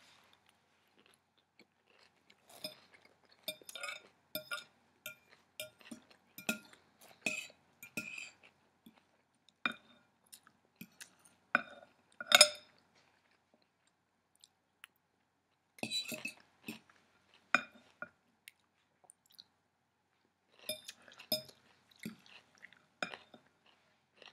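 Kale salad being chewed close to the microphone: crisp crunching in bursts, with a fork clinking on the dish now and then. The loudest crunch comes about halfway through, and there are a couple of short pauses.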